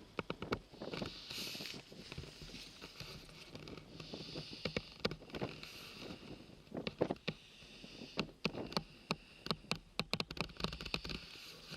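Wind rushing and buffeting on the microphone outdoors, with many sharp clicks and knocks scattered through it, denser near the end.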